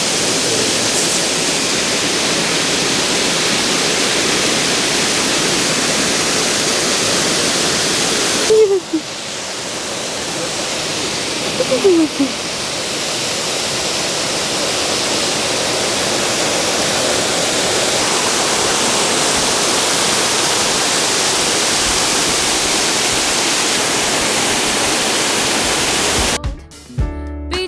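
Waterfall pouring, a steady loud rush of falling water that dips briefly and comes back about eight seconds in. Music begins near the end.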